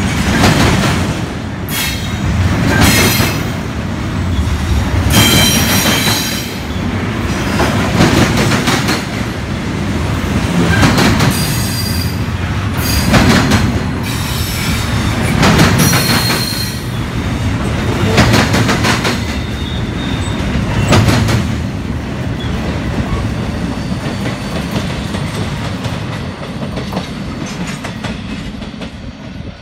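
Double-stack intermodal well cars rolling past close by. Wheels clack over the rail joints in surges about every two seconds, with high-pitched wheel squeal on some of them. The sound fades near the end as the last car moves away.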